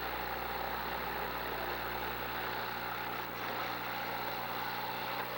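Demolition derby car engines running steadily, several engines blending together with no distinct crashes.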